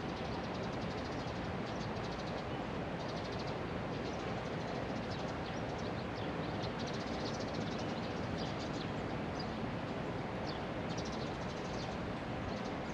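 Steady rushing background noise with faint, scattered bird chirps above it.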